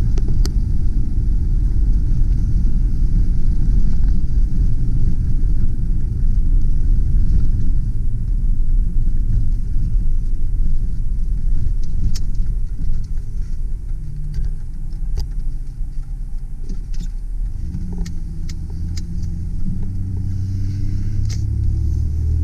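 Cab interior sound of a 2001 Mazda B4000 V6 pickup on the move: a steady low road-and-engine rumble. About two-thirds of the way through the rumble drops and the engine's hum comes through on its own, then it grows louder near the end as the truck pulls again, with a few light clicks along the way.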